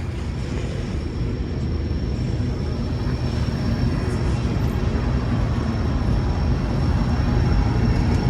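Loaded freight cars rolling slowly past: a steady low rumble of steel wheels on the rails that grows slightly louder toward the end, with a faint thin high whine held throughout.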